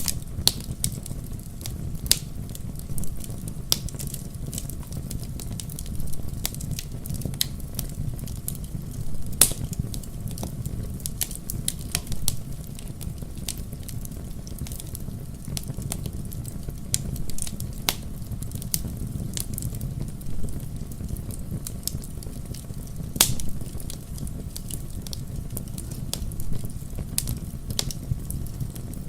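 Wood fire burning in a fireplace, with a steady low rumble and irregular crackles and pops, a few sharper ones standing out.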